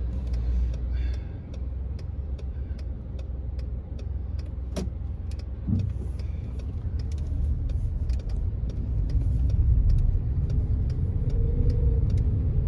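A car heard from inside its cabin while being driven slowly, giving a steady low rumble from the engine and tyres. Faint, even ticking runs through it at about two or three a second, with one sharper click near the middle.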